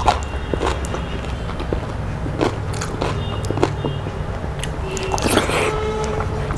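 Close-miked chewing with wet mouth smacks and clicks as a mouthful of rice and fried food is eaten, over a steady low hum.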